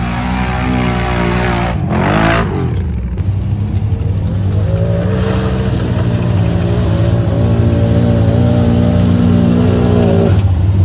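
Off-road vehicle engine running hard and revving: its pitch dips and climbs back about two seconds in, then holds steady under load.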